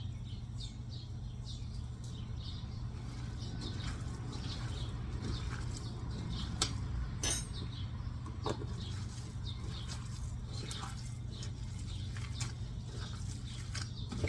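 Small bird chirping over and over, short high notes that keep up throughout, over a steady low hum. A few sharp clicks come between about six and a half and eight and a half seconds in.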